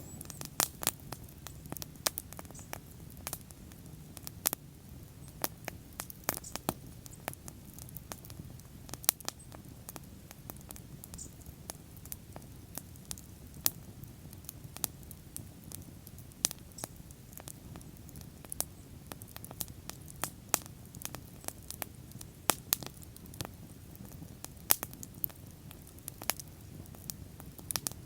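Wood fire burning, with frequent irregular sharp crackles and pops over a low, steady rumble of the flames.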